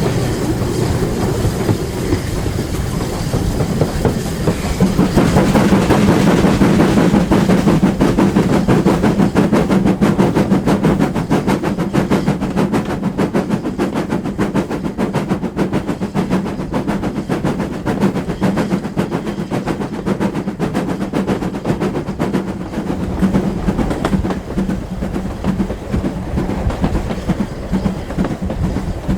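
Train running along the line, its wheels clicking steadily and quickly over the rail joints, with a steady hum under it; loudest about five to ten seconds in.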